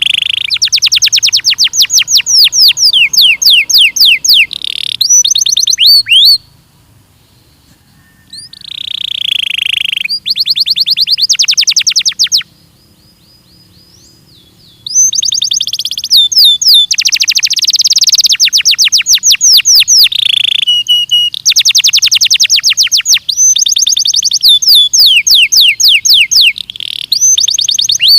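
Belgian canary singing long, loud, rapid trills of repeated sweeping notes. The phrases break off twice for about two seconds, about six and about twelve seconds in.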